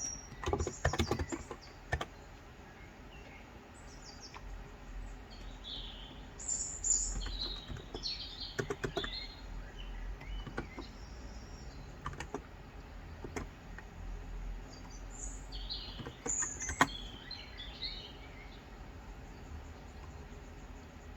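Typing on a Cox Endeavor electro-capacitive tenkeyless keyboard with 35 g switches: a quick run of keystrokes in the first two seconds, then occasional single key presses. Birds chirp throughout.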